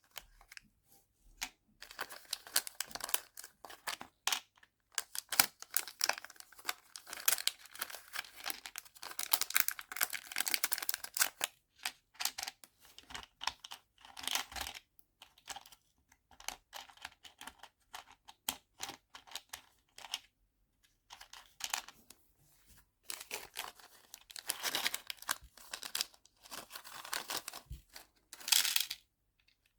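Small plastic packets of nail charms crinkling and being torn open, with quick runs of small clicks as tiny charms and plastic boxes are handled, in irregular bursts with short pauses.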